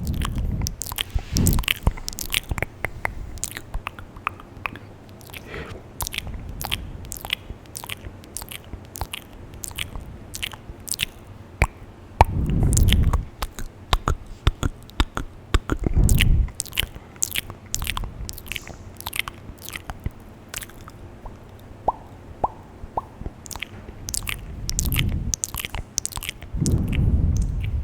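ASMR mouth sounds close to a very sensitive microphone: a run of wet clicks, pops and smacks of the lips and tongue, with a few longer low, breathy swells in between.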